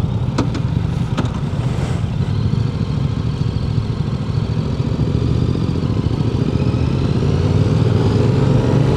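Motorcycle engine running steadily, then picking up a little in pitch and loudness over the last few seconds as the group gets moving again. Two short clicks come in the first second or so.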